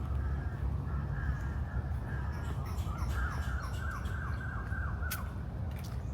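A bird calling: a quick run of about eight short notes, each falling in pitch, after a few scattered calls. A steady low rumble runs underneath.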